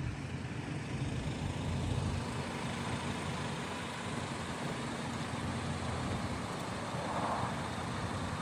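Vehicle engine running steadily with a low rumble, typical of an off-road vehicle driving on a mountain track.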